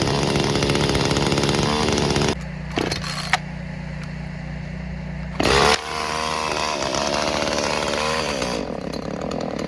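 Gas chainsaw running at high revs, dropping to a lower note about two seconds in, with a short loud rev near the middle, then running on and falling off near the end as the saw runs out of fuel.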